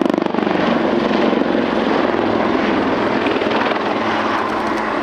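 Two Royal Navy Wildcat HMA.2 helicopters flying a display pass: a steady rapid rotor chop over turbine noise, fading a little near the end.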